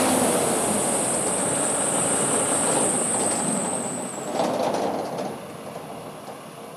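A heavy truck running and moving past, a steady rumble with a high hiss that fades away about four seconds in.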